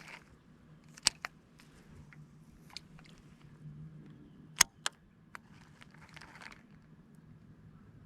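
A handful of sharp, separate clicks and light knocks, the loudest pair about four and a half seconds in, over a low steady hum.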